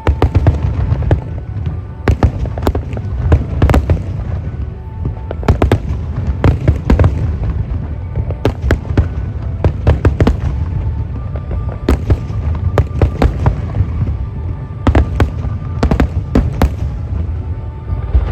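Aerial fireworks shells bursting in rapid clusters of loud bangs over a constant low rumble, with music playing underneath.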